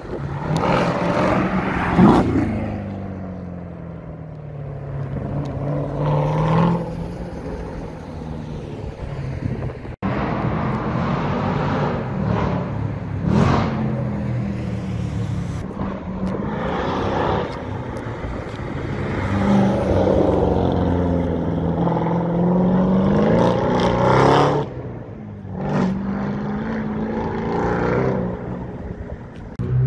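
Supercar engines accelerating hard, revving up and dropping back at each gear change, over several passes. The loudest surges come about two seconds in, around the middle, and near the end.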